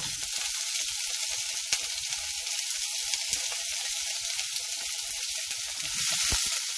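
Shredded cabbage sizzling as it hits hot oil in a wok. The hiss starts suddenly and keeps steady, with light clicks of wooden chopsticks against the pan as it is stirred, growing a little louder about six seconds in.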